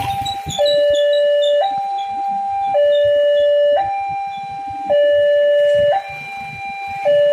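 Railway level-crossing warning alarm sounding a two-tone electronic signal that alternates between a higher and a lower tone about once a second, with the lower tone louder. It warns that a train is approaching the crossing. Faint quick high beeps run over it.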